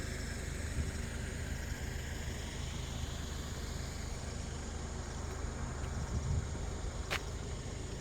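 An engine running steadily with a low, even hum, and a single sharp click about seven seconds in.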